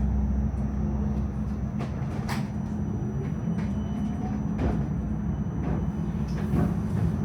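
Melbourne tram running along its tracks: a steady low rumble from wheels and motors, with a few sharp clicks from the wheels on the rails.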